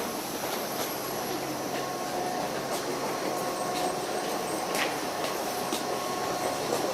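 Electric commuter train standing at a station platform, giving a steady noise with a faint hum and a few light clicks.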